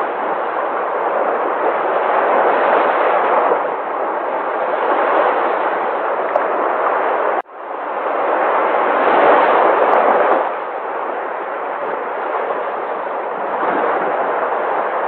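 Sea waves breaking and washing ashore: a steady surf noise that swells and eases every few seconds, loudest as a wave breaks about two-thirds of the way through. The sound cuts out for an instant about halfway.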